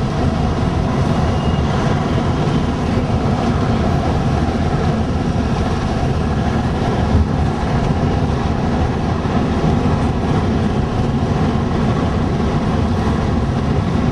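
Steady engine and road noise from inside a moving car, a continuous low rumble with a faint hum.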